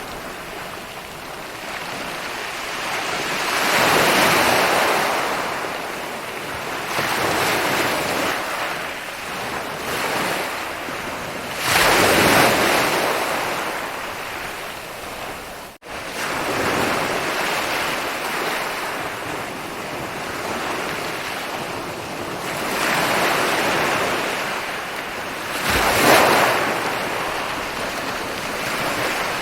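Ocean waves rolling in and breaking on a beach, the surf swelling and falling back every few seconds, with the biggest breaks near the middle and near the end. A momentary dropout cuts the sound about halfway through.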